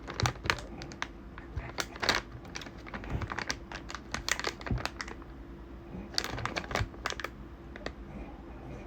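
Irregular crinkling and clicking of a plastic snack packet being handled, in uneven clusters.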